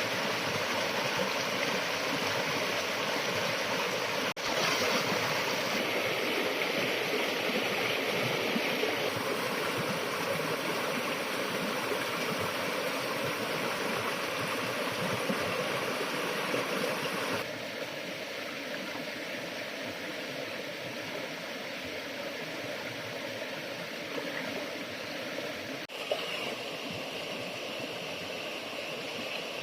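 Steady rushing of flowing water, like a river current over rocks or water pouring over a dam. Its tone and loudness change abruptly about 4, 17 and 26 seconds in.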